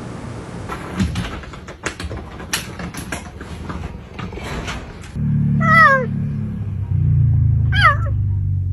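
Domestic cat meowing twice, each call short and falling in pitch, over a loud low rumble that starts about five seconds in. Before that come scattered clicks and rustles.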